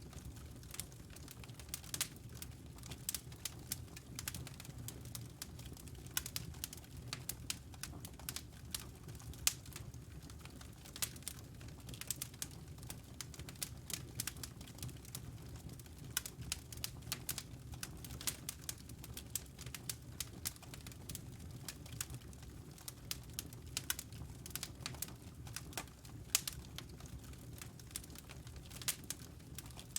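Wood logs burning in a fireplace: frequent, irregular sharp crackles and pops over a low, steady rumble of the flames.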